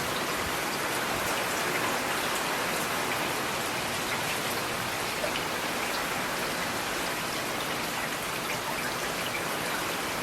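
Steady rain falling on hard surfaces, an even hiss with scattered individual drop ticks.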